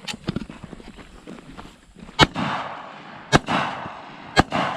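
Three sharp AR-15 rifle shots in .223, about a second apart, each followed by a short echo. A few light clicks and knocks come before the first shot.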